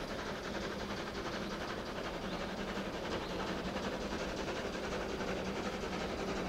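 A train running with a steady, even rumble.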